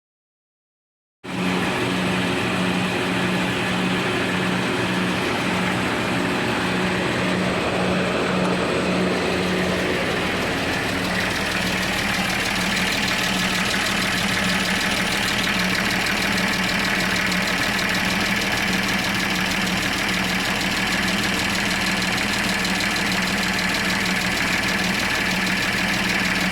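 Toyota Coster's rebuilt 1HZ inline-six diesel engine idling steadily with an even pulse. It begins suddenly about a second in.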